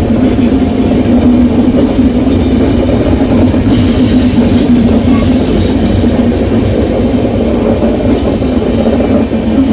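Indian Railways train running, a loud steady rumble with a constant low hum.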